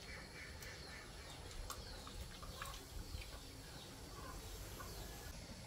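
Faint bird calls: scattered short, quick downward chirps over a low, steady background rumble.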